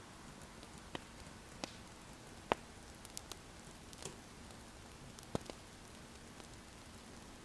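Wood fire crackling: a soft, steady hiss with sharp pops at irregular intervals, the loudest about two and a half seconds in.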